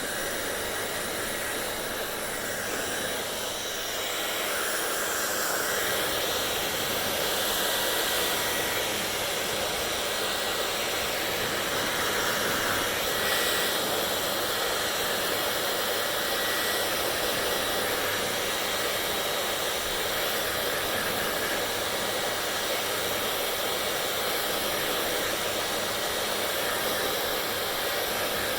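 Hair dryer blowing steadily: an even rush of air with a faint high steady whine, the sound shifting slightly a few seconds in.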